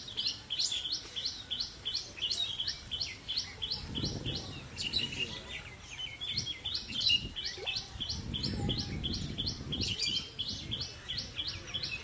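A bird calling in a fast, even run of short, high chirps, about three or four a second, with a brief break midway. A low rumbling noise swells twice underneath.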